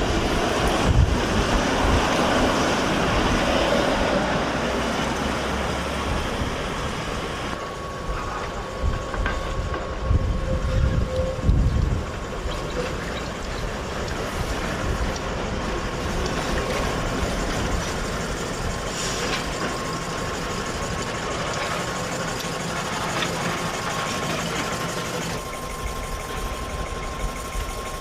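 An electric street transit vehicle (tram or trolleybus) running in the street. There are heavy low rumbles through the first twelve seconds, and a steady thin whine from about eight seconds in.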